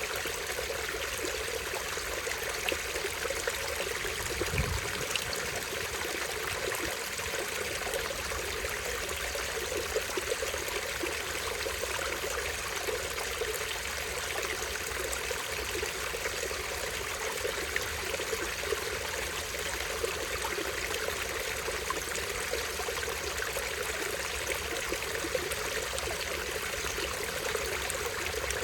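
Small stream running over a tiny waterfall, water splashing and trickling steadily.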